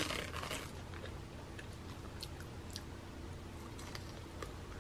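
The lid of a small plastic chili-sauce cup peeled off with a short crackle, then biting into and chewing a piece of fried chicken with scattered faint crunches.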